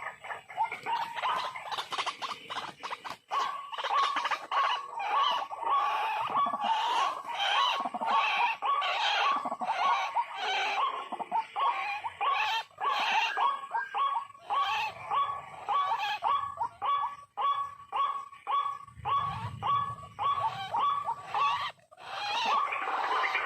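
White-breasted waterhen calling: short harsh notes repeated steadily, about two a second.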